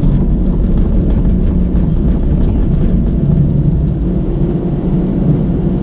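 Steady low rumble of a car driving along a road: engine and tyre noise heard from inside the moving car.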